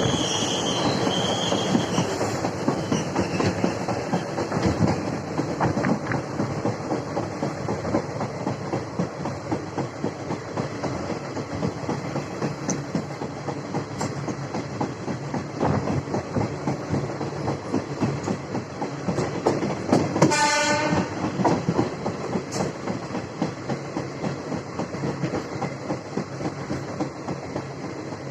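Indian Railways passenger train running along the track: a steady rumble with wheels clattering over the rails. About two-thirds of the way through, a horn sounds briefly, for about a second.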